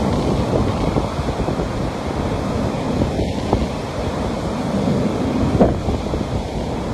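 Ocean surf breaking and washing on a beach, a steady rush of water, with wind rumbling on the microphone.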